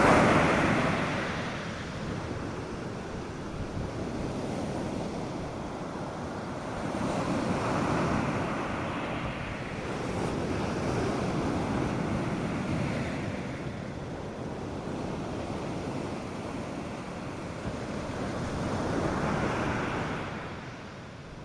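North Sea surf breaking on a sandy beach: waves rush in one after another, each swelling and fading over several seconds, the loudest right at the start.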